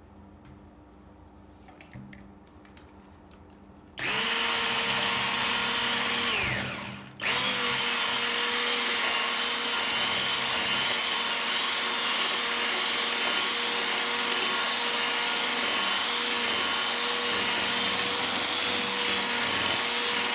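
Electric kitchen mixer switched on about four seconds in and running at a steady speed. It is switched off briefly, its pitch falling as it winds down, then switched straight back on and runs steadily.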